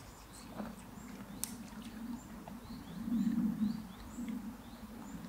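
A small bird chirping over and over with short high calls, about two a second, over a low outdoor rumble that swells for a moment about three seconds in.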